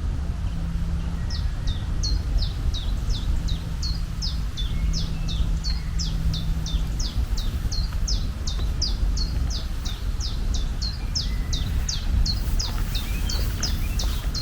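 A bird calling a long, even series of quick, high notes that each sweep downward, about two or three a second, over a steady low rumble.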